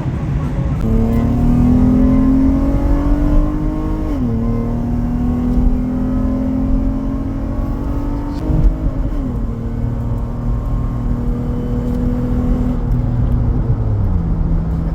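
2014 Acura MDX's 3.5-litre V6 through a full 3-inch catback exhaust under hard acceleration during a tuning run. The revs climb and drop sharply at upshifts about 4 and 9 seconds in, then fall away twice near the end.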